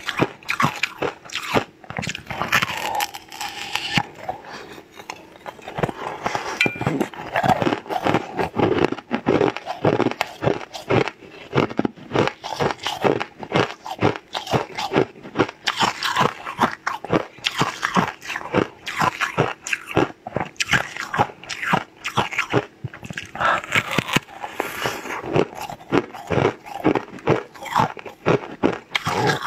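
Repeated crunchy bites and chewing of a hard pink corn-cob-shaped treat: a dense run of sharp crackles.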